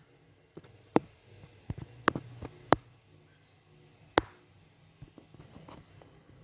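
A series of sharp, irregular clicks, about six strong ones with a few fainter ones between, over a faint steady low hum.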